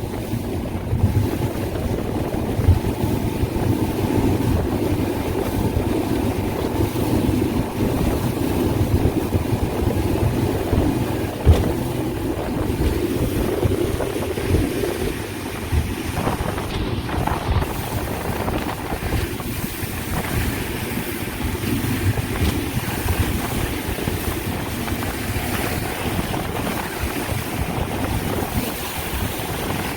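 Boat under way: wind buffeting the microphone over water rushing along the hull, with a steady low rumble. One sharp knock stands out about a third of the way in.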